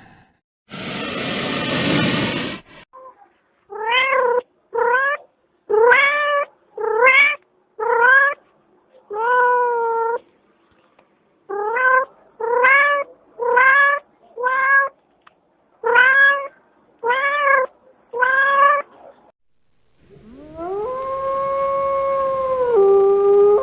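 A cat meowing again and again: about sixteen short calls, each rising in pitch, in two runs with a pause between, after a brief burst of noise at the start. Near the end a long held howl from a dog or wolf begins, dropping to a lower pitch once.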